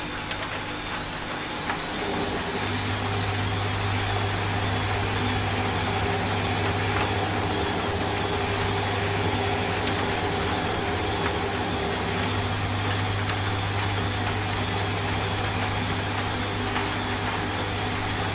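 Washing machine running. Its motor comes up to a steady low hum about two seconds in, over a constant hiss of rain.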